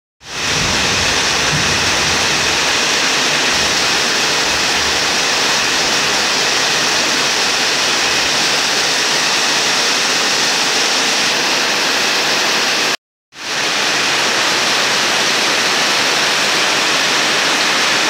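Heavy rain falling steadily, with rainwater gushing from a roof drain pipe onto the ground. The sound cuts out suddenly for a moment about two-thirds of the way through, then resumes.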